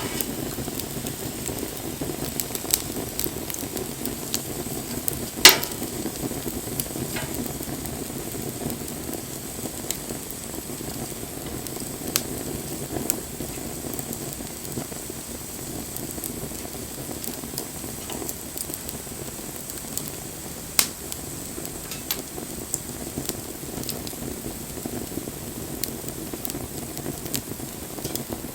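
Wood campfire burning with a steady crackle and scattered sharp pops, the two loudest about five seconds in and about twenty-one seconds in.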